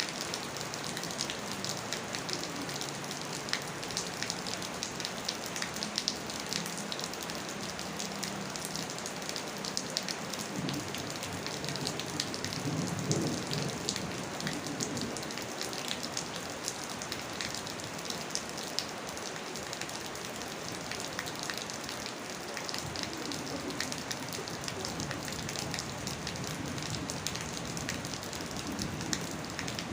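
Steady rain falling, an even hiss dotted with many small drop clicks. A low rumble rises and fades in the background about twelve to fourteen seconds in.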